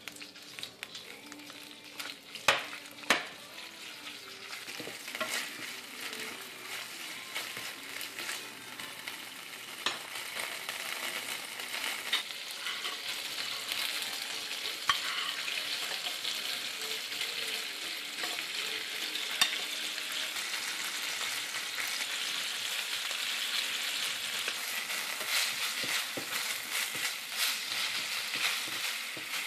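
Chicken pieces sizzling in hot oil in a nonstick frying pan, stirred and scraped with a wooden spatula. Two sharp knocks come close together near the start, and the sizzle builds steadily louder as garlic, shallot and red chilli go into the pan.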